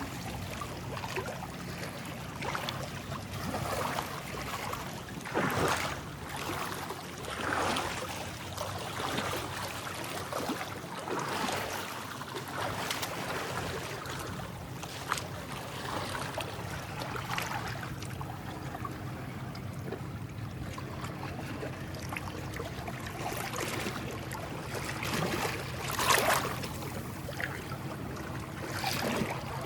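Small sea waves lapping and splashing against the shore in irregular swells, one every second or few, the loudest near the end, over a steady low hum.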